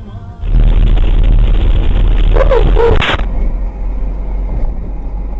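Loud vehicle and road noise, with a short high yelp-like cry about two and a half seconds in; it cuts off abruptly at about three seconds to quieter, steady vehicle noise.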